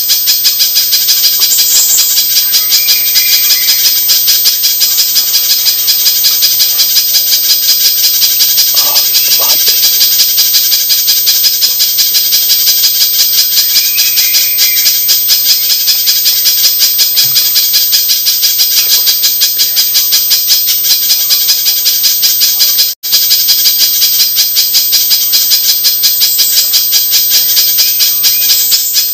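Spiderhunter (pijantung) lure recording: a loud, unbroken stream of rapid, sharp, high-pitched chip notes, cutting out for a split second about 23 seconds in.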